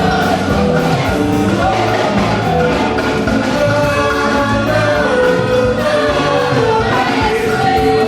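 Gospel music with group singing over a steady percussion beat.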